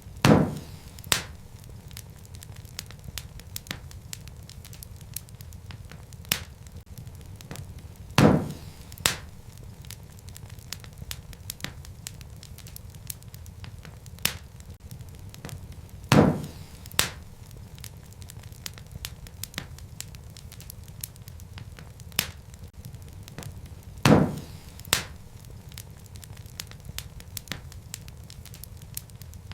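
Wood fire crackling: many small snaps and ticks over a low steady rumble, with a louder pop followed by a second, smaller pop recurring about every eight seconds.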